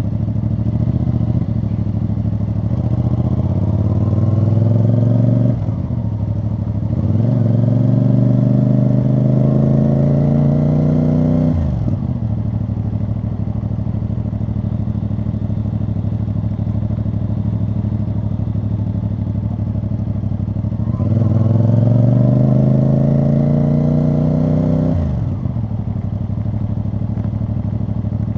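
CF Moto CL-C 450 motorcycle's parallel-twin engine and exhaust while riding. The revs climb three times under throttle, and each climb ends in a sudden drop as the throttle closes. Between the climbs the engine runs at a steady lower note.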